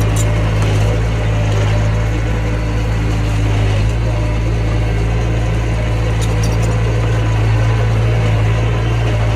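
Mini bulldozer's diesel engine running steadily at a constant low hum, with faint metallic clinks near the start and again about six seconds in.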